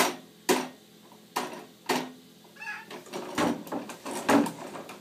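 A toy truck knocking sharply against a hard surface, four knocks in the first two seconds, each with a brief ring. Short high-pitched calls follow in the second half.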